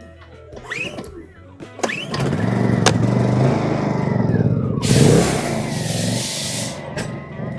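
A Honda generator's small petrol engine starting about two seconds in and running loudly, over background music. A burst of hiss comes about five seconds in.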